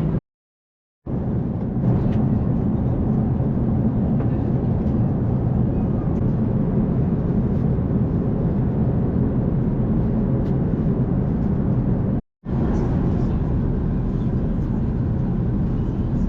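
Steady low rumble of airliner cabin noise inside an Airbus A380, dropping to dead silence twice, briefly near the start and again near the end.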